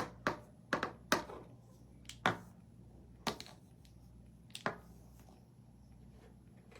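Light taps and clicks of small objects, such as paint bottles and brushes, being handled and set down on a craft work table: about seven, spaced irregularly and mostly in the first two-thirds, over a faint steady hum.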